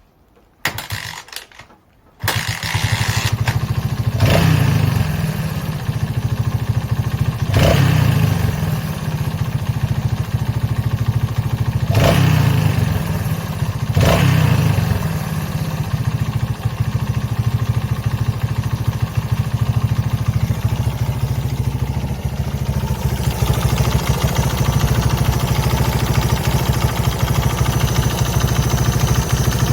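Honda XL125S single-cylinder four-stroke motorcycle engine starting after a couple of short attempts, catching about two seconds in. The throttle is blipped four times before it settles into a steady idle.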